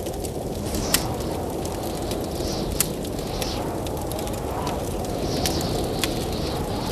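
Wood fire crackling with a few sharp pops over the steady rushing noise of blizzard wind.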